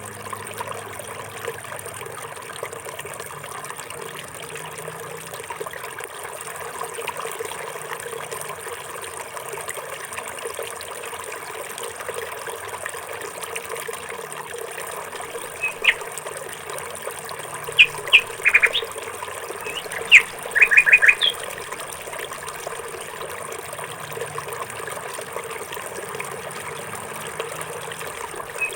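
Water trickling steadily, with a few short, high bird chirps in a cluster about two-thirds of the way through.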